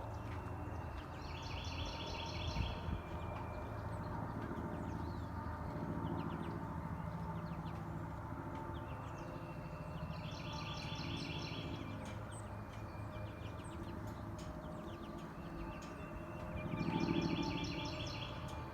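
Wild birds singing. One bird repeats the same song three times, about every seven seconds: a short held note leading into a fast trill lasting a second or so. Scattered short chirps from other birds fill the gaps, over a steady low rumble.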